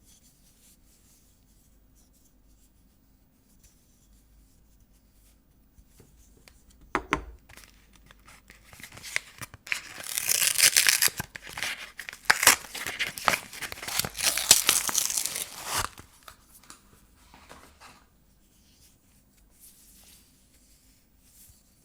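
A soap bar's wrapper being torn open and crinkled. A short rustle comes about seven seconds in, then several seconds of loud tearing and crackling that stops abruptly.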